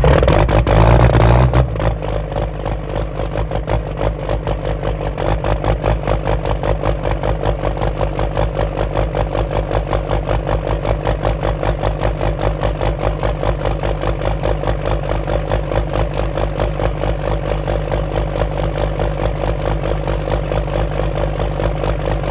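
5.9 Cummins inline-six turbo diesel catching on a cold start: louder for about a second and a half as it fires, then settling into a steady idle with an even, rhythmic diesel clatter.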